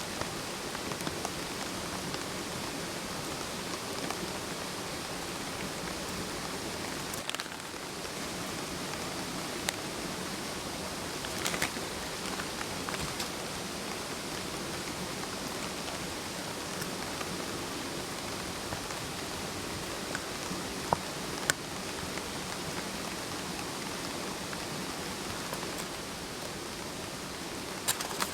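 Mountain stream murmuring steadily over rocks, with a few sharp pops from a campfire.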